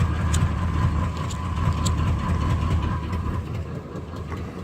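Box Chevy Caprice engine idling steadily, still warming up after a below-freezing cold start.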